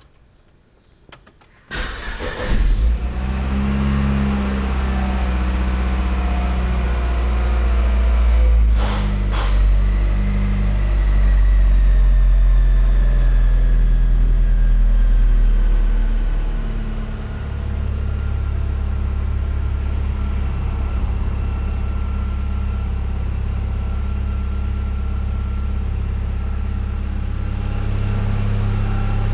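Chevrolet Vectra 2.2 16V four-cylinder engine cranked and catching about two seconds in on a cold start after a week standing, then running at a raised cold idle that settles lower about halfway through. Two sharp clicks sound around nine seconds in.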